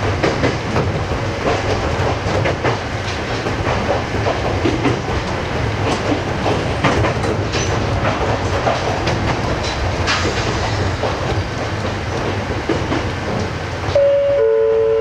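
Ohmi Railway 820 series electric train running along the line, heard from the cab: a steady rumble with the clickety-clack of wheels over the rail joints. About a second before the end, a steady two-note tone starts and holds.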